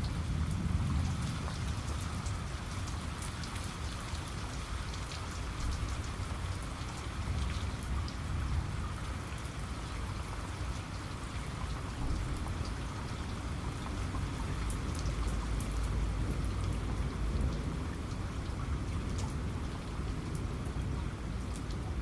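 Steady heavy rain, with many sharp drop ticks on top of a constant hiss. A low thunder rumble runs underneath and swells briefly about a second in and again past the middle.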